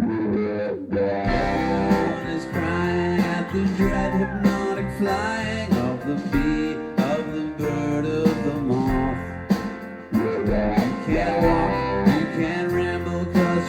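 A rock band playing a song live, heard on an audience bootleg recording.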